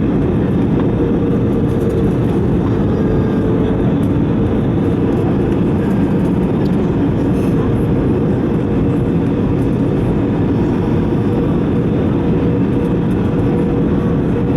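Airbus A320 cabin noise on final approach: a steady, loud rush of engine and airflow noise with a constant hum running through it.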